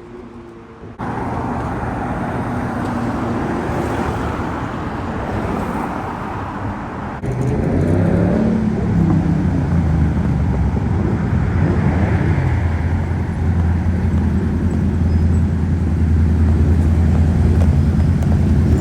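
Car engines in street traffic. About seven seconds in, a loud car engine comes in with its pitch sweeping for a moment, then settles into a deep, steady rumble.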